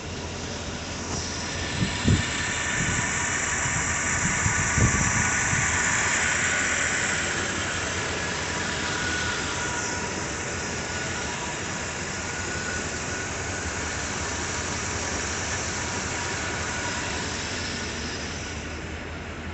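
1985 Chevrolet Suburban engine idling just after a cold start, with a high-pitched squeal over the running. A few sharp knocks come in the first five seconds.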